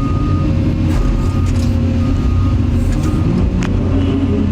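Motor vehicle running steadily, a continuous low rumble of engine and road noise, with a faint high tone that comes and goes about once a second.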